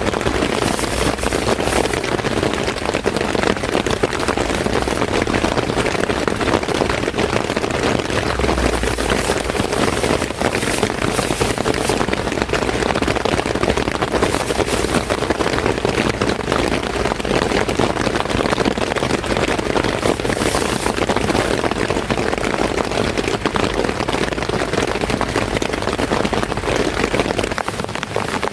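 Heavy rain pattering steadily on a surface, a dense patter of countless drops, with a brief low rumble about eight seconds in.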